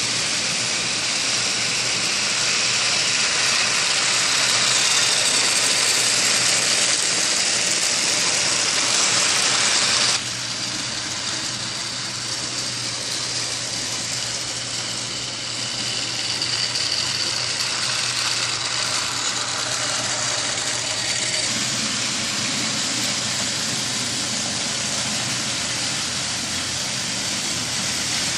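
Battery-powered Trackmaster toy train's small electric motor whirring steadily as it runs along its plastic track. The sound drops suddenly and becomes a little quieter about ten seconds in, then carries on steadily.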